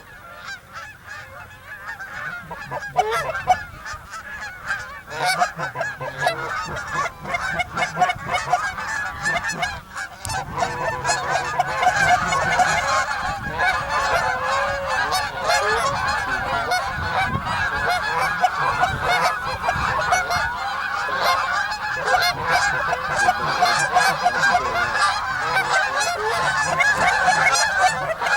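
Many geese honking together, a dense chorus of overlapping calls that grows thicker and louder from about ten seconds in.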